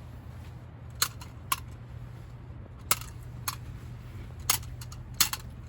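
A series of sharp, irregular clicks or taps, about seven in five seconds, over a steady low hum.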